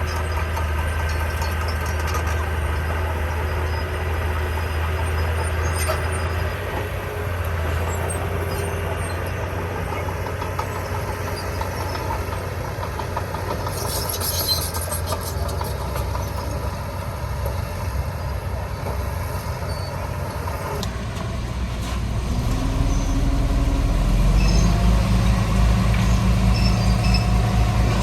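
Diesel engines of heavy construction machinery running steadily, with a brief high hiss about halfway through. About three-quarters in the engine sound changes and grows louder and deeper, with a throbbing low beat.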